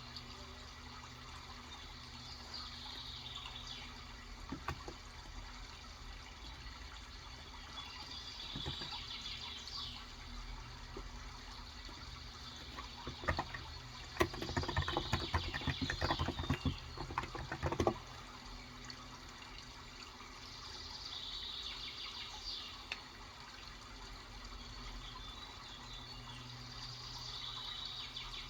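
Typing on a Cox Endeavour electro-capacitive (Topre-style) 35g tenkeyless keyboard: a few scattered keystrokes, then a quick run of keystrokes about halfway through. Behind it runs a steady water sound, with bird chirps coming back every few seconds.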